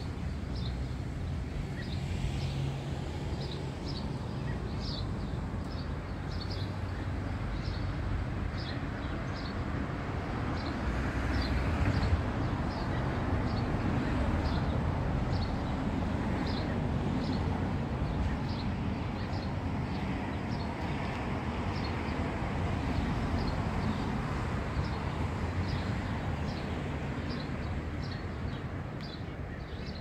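A songbird repeating short, high chirps, about one or two a second, over a steady low outdoor rumble that swells midway.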